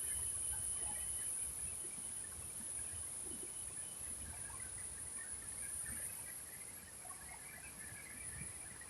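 Steady high-pitched insect chorus, with scattered short chirps and a low rumble underneath.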